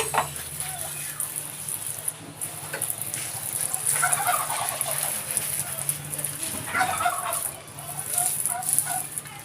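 Animal calls in two clusters, about four and about seven seconds in, over a steady low hum and hiss.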